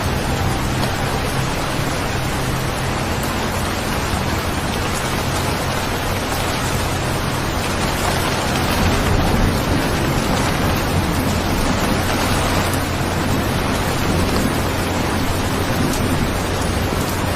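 Steady heavy rainfall as an ambient sound recording, an even hiss throughout, with a low rumble swelling around the middle.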